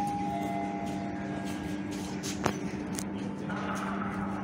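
A train running with a steady low hum. Higher whining tones fade out in the first second and a half, and there is one sharp click about two and a half seconds in.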